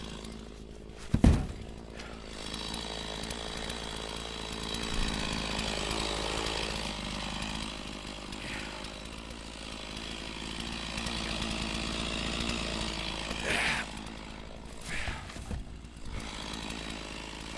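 Stihl MS460 two-stroke chainsaw running steadily, with a single thud about a second in.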